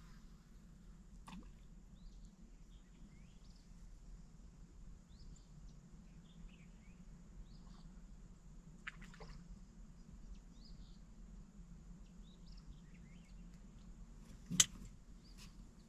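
Faint scattered bird chirps and calls over a low steady hum, with a few sharp clicks; the loudest click comes near the end.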